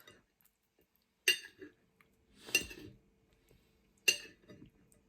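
Cutlery clinking against a plate three times, sharp ringing strikes about a second and a half apart, as food is cut and picked up.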